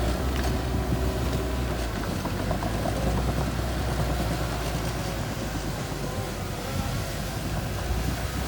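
A small bulldozer's diesel engine running steadily, with a low rumble and a few light clicks.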